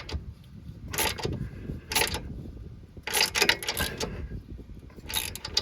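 Ratchet wrench clicking in about four short bursts as a sway bar link nut is tightened down.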